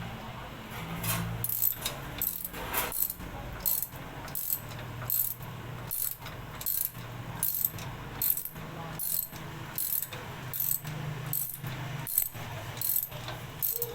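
A socket ratchet wrench being worked in steady strokes, its pawl clicking in short bursts about once every three quarters of a second.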